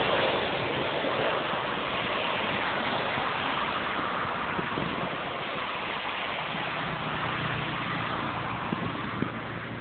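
Steady rushing noise of a landing aircraft, slowly easing off in level.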